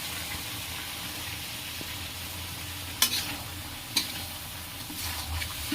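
Chicken livers, gizzards and tomatoes sizzling in hot oil in a kadai, a steady hiss, with two sharp knocks of a stirring spoon against the pan about three and four seconds in.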